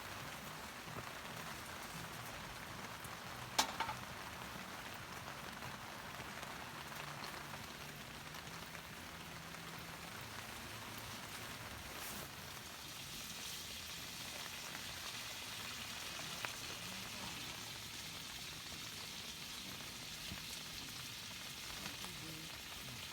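Meat sizzling over a campfire with steady rain pattering around it; the hiss of the sizzling grows brighter about halfway through. A single sharp knock sounds a few seconds in.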